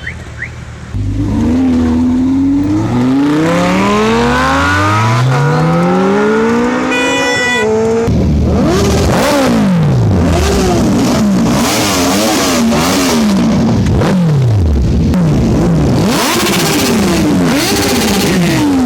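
High-performance engine with an aftermarket exhaust being revved hard. It comes in about a second in with one long climb in pitch, then is blipped repeatedly, each rev rising and falling back, about one every second or two.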